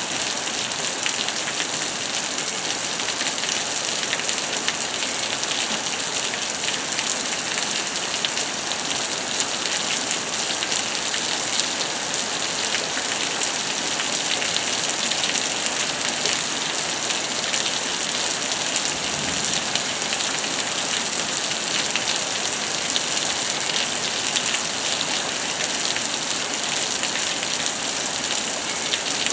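Steady rain falling in a thunderstorm, an even hiss of drops.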